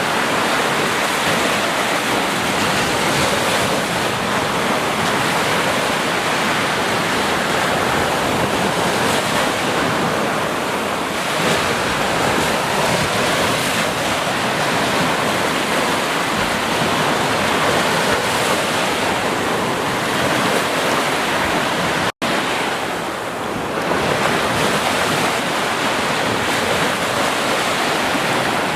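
Ocean waves washing onto a beach: a steady surf rush that swells and eases slowly. The sound cuts out for an instant about 22 seconds in.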